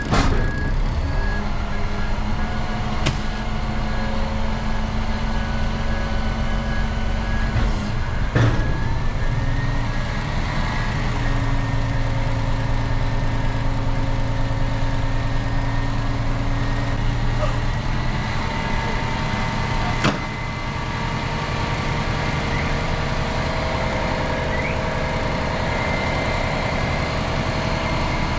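Dumpster truck engine running steadily as the truck maneuvers, its pitch shifting a few times, with a regularly repeating beep for the first several seconds and a few sharp knocks.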